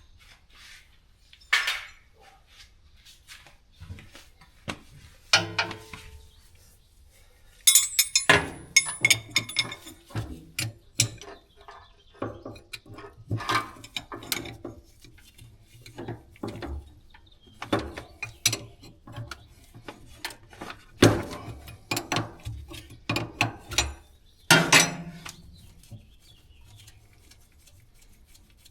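Metal hand tools clinking and clanking against fittings in irregular sharp knocks, sparse at first and busier from about eight seconds in, as a hydraulic hose fitting is loosened and taken off.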